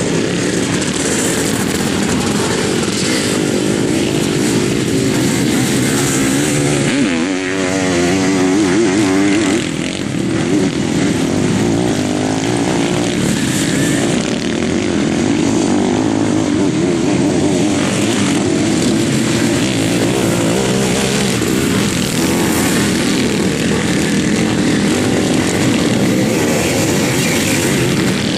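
Several sidecar motocross outfits' engines racing, revs rising and falling continuously as they accelerate and shift around the dirt track.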